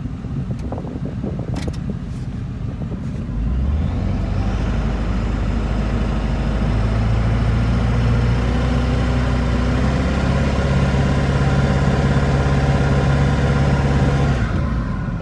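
Ford 7.3 Powerstroke turbo-diesel V8 in an F350 brought up to a heavy, steady load about three seconds in and held there for roughly ten seconds, then let off near the end: a burnout attempt in which the tires won't break free.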